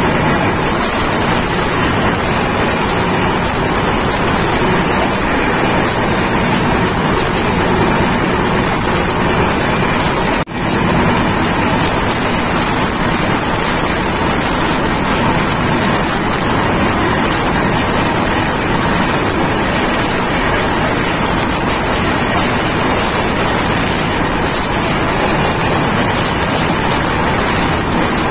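Steady rush of wind and wheel-on-rail running noise from the open door of a passenger train travelling at speed, with a momentary dropout about ten seconds in.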